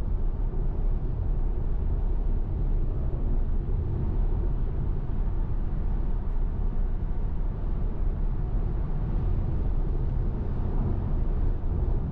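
Steady road and tyre rumble from a Tesla Model Y, an electric car with no engine note, heard from inside the cabin while it cruises at highway speed.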